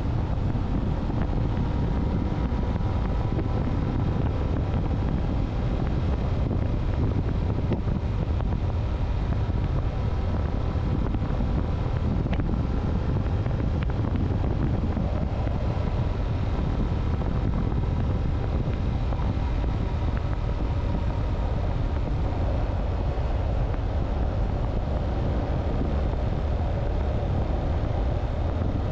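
Motorcycle engine running steadily while riding, its hum drifting slightly in pitch, under a constant low rush of wind noise on the microphone.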